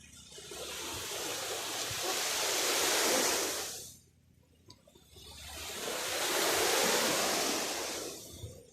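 Ocean waves breaking and washing up the shore, two of them: each builds for a few seconds and then falls away.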